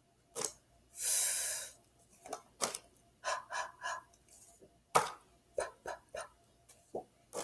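A woman's voice making isolated letter sounds in a phonics drill: a drawn-out "fff" hiss about a second in, then a run of short breathy puffs ("h, h, h" and "p, p, p") spaced apart.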